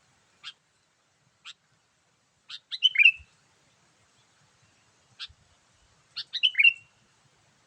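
Sooty-headed bulbul (kutilang) calling: a couple of short single chirps about a second apart, then a quick burst of several notes about three seconds in, another single chirp, and a second burst about six seconds in.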